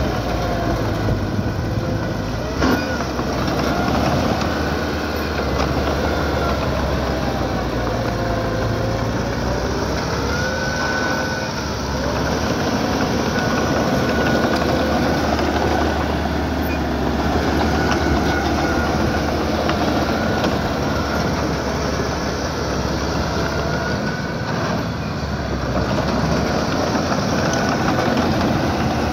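A small crawler bulldozer's diesel engine runs steadily under load while its steel tracks clank and squeak, the squeaks rising and falling in pitch. There is a sharp knock about two and a half seconds in.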